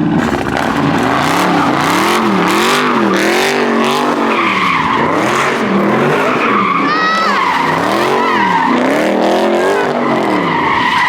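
A car spinning donuts: the engine revs up and down about once a second while the tyres squeal, the squeal strongest from about four seconds in.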